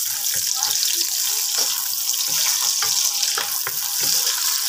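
Chopped onions and whole garlic cloves frying in hot mustard oil in a pan: a steady loud sizzle with scattered crackles and pops.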